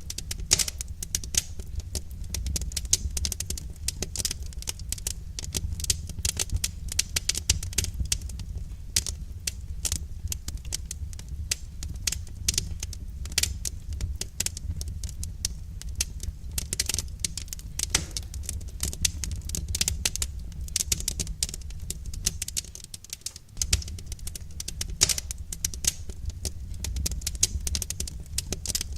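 Wood fire crackling in a fireplace, a dense, irregular patter of small pops and snaps over a steady low rumble of the burning fire, easing briefly a little past two-thirds of the way through.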